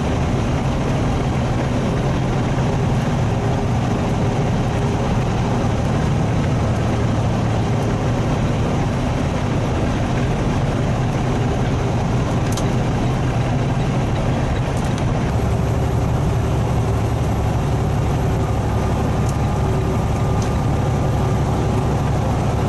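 Diesel semi truck's engine droning steadily under road and tyre noise, heard from inside the cab while cruising; the low drone changes a little about fifteen seconds in.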